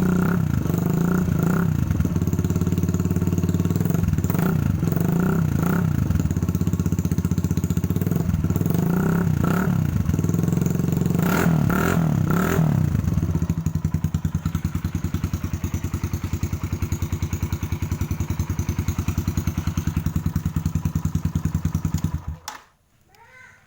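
Kawasaki KLX motorcycle's single-cylinder engine through a Norifumi aftermarket exhaust, with a tinny, tin-can-like sound. The throttle is blipped repeatedly for about the first half. Then it idles steadily and is switched off near the end.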